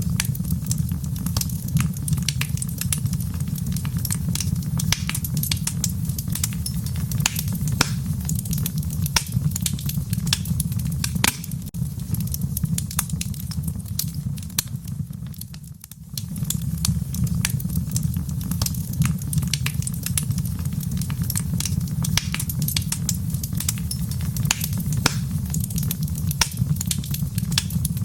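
Wood fire in a fireplace crackling, with frequent sharp pops and snaps over a steady low rumble of burning. The sound dips briefly a little past halfway, then carries on as before.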